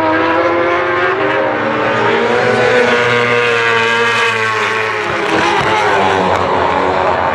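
Several World Superbike racing motorcycles at high revs, their engine notes overlapping and rising and falling in pitch as they pass, with a brief lull a little past the middle before the next bike comes up.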